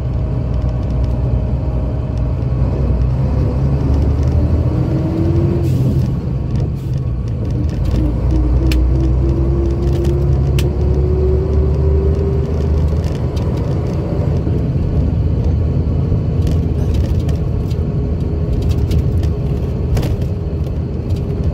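1984 Scania K82SR coach's diesel engine pulling under load. Its pitch climbs as it revs, drops at a gear change about six seconds in, then climbs again. A few sharp clicks or rattles sound over the low rumble.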